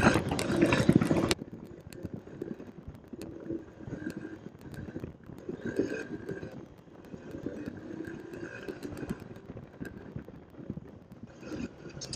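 Honda CB 125 F single-cylinder motorcycle engine running under way, its note rising and falling with the throttle. It opens with a loud rush of noise that cuts off after about a second.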